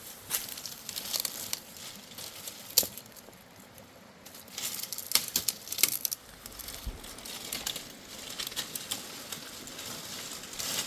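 Irregular crackling and rustling with many short, sharp clicks, busiest about a second in and again around five to six seconds in.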